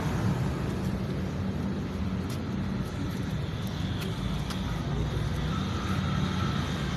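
Steady low hum of a motor running, with a few faint clicks about two and four seconds in.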